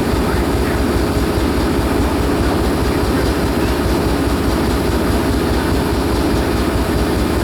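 Diesel locomotive engine idling steadily, a continuous low rumble with a steady hum above it.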